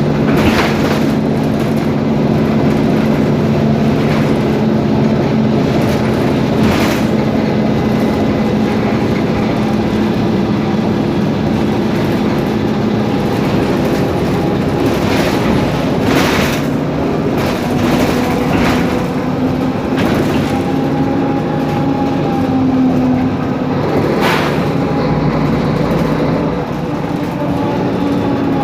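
Mercedes-Benz Conecto G articulated city bus with its OM457LA six-cylinder turbo diesel running steadily under way, heard from inside, with the drivetrain note shifting in pitch as speed changes. Several sharp rattles or knocks from a loose fitting come through, and a whine from the drivetrain rises in the second half.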